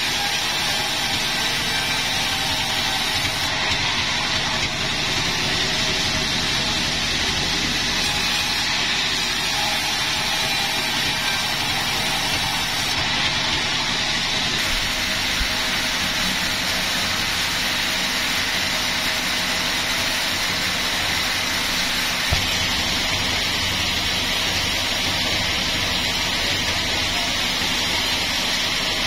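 Sawmill machinery running steadily: a constant loud mix of machine hum and saw noise that does not let up.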